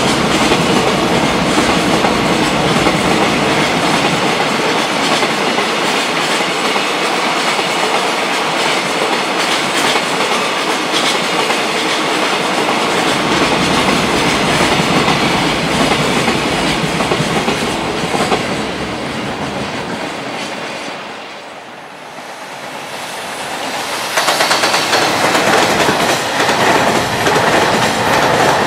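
Freight train running past at speed, its wagons clattering over the rail joints. The sound dies away about two-thirds of the way through, then a second train comes in loud a few seconds later.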